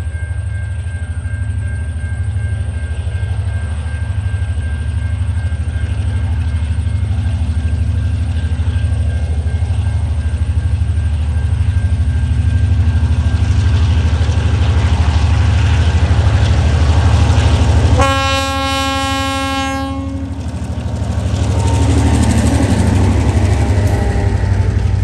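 Diesel locomotives hauling a loaded coal train, their deep engine rumble growing louder as they approach and pass close by. About 18 seconds in, a horn sounds for the road level crossing: one blast of about two seconds. Near the end the lead locomotives and the coal hopper wagons roll past.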